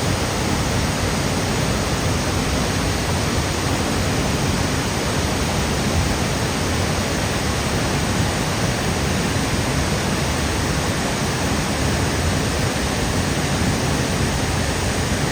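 Burney Falls waterfall pouring steadily: an unbroken, even rush of falling water.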